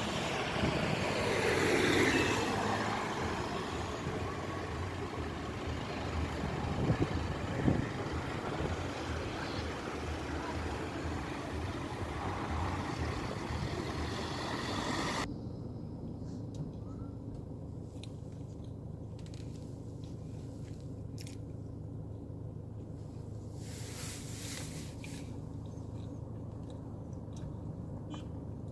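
Street noise with a vehicle passing close by in the first few seconds. About fifteen seconds in it cuts abruptly to a quieter background with scattered clicks.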